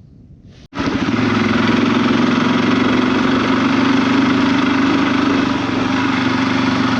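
Engine of a small off-road vehicle running at a steady, even speed, starting abruptly about a second in.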